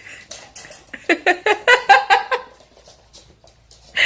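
An animal giving a quick run of about eight short, pitched cries starting about a second in and lasting over a second.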